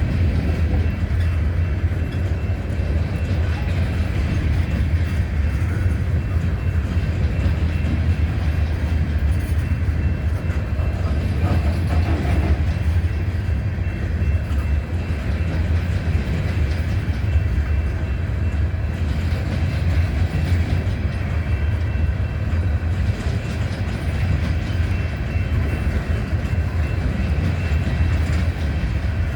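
CSX freight train rolling past steadily, a continuous low rumble of wheels on rail.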